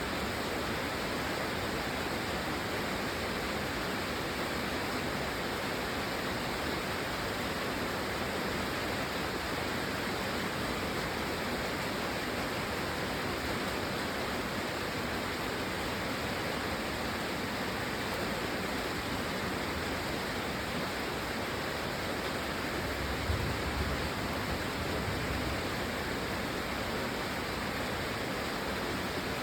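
Steady heavy rain falling, an even rushing hiss, with a brief low rumble about two-thirds of the way through.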